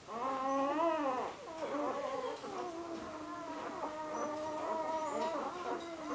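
Week-old puppies crying and whining: a loud rising-then-falling squeal in the first second, then steady wavering high cries.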